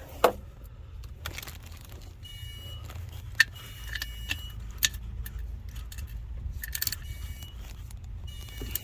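Metal tools and parts clinking and clattering in a scatter of sharp knocks, some leaving a short high ring, over a steady low hum.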